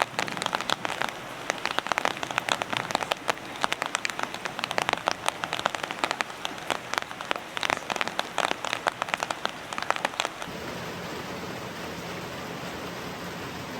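Heavy rain falling on a hut roof, a dense uneven patter of individual drop impacts. About ten seconds in it changes abruptly to a steady, even rush of rain.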